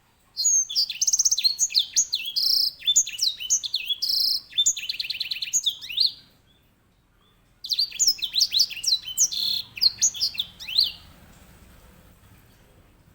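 Grey singing finch (white-rumped seedeater) singing its loud rolling song: two long runs of rapid, high chirps, sweeping notes and buzzy trills, the first about six seconds long, the second starting after a pause of about a second and a half and stopping shortly before the end.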